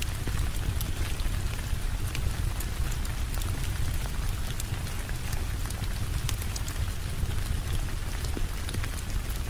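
Steady rainfall: a continuous hiss with a low rumble underneath, dotted with scattered sharp ticks.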